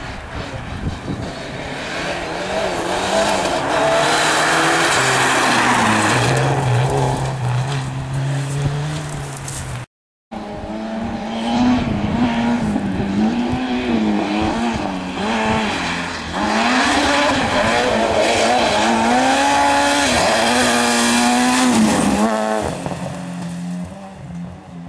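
Rally car engines revving hard, the pitch climbing and dropping again and again as the drivers work the throttle and gears, in two separate passes split by a sudden cut about ten seconds in.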